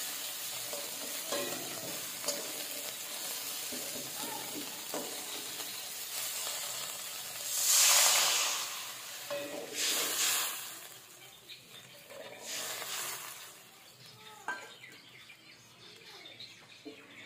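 Spice paste frying in hot oil in a metal karahi, sizzling steadily while a metal spatula stirs and scrapes the pan. About eight seconds in, water is poured in from a metal bowl and the hot oil flares into a loud hiss. The hiss surges twice more, then dies down as the liquid settles into a gravy.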